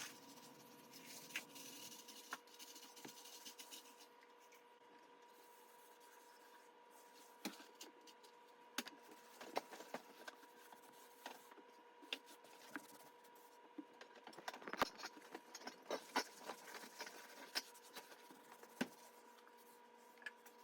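Faint scattered light knocks and rubbing from dust and spider webs being cleaned off a wall, busier in the second half, over a steady faint hum.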